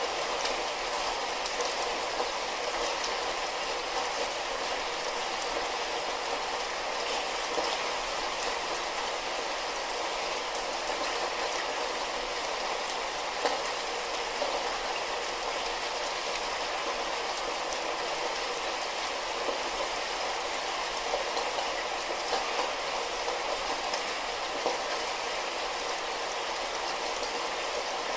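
Light rain falling steadily, a constant hiss with scattered small drop ticks.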